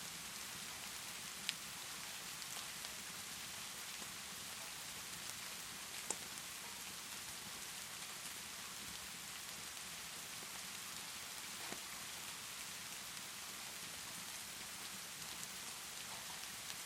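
Steady rainfall hissing evenly, with a few isolated sharp pops from a crackling wood fire, about a second and a half in, about six seconds in, and near twelve seconds.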